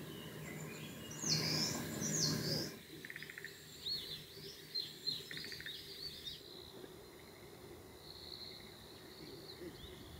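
Wild birds calling over a quiet rural background: two loud high calls about a second apart early on, then a scatter of short chirps and a couple of brief buzzy trills, and a steady high note near the end. A faint low hum sits under the first three seconds.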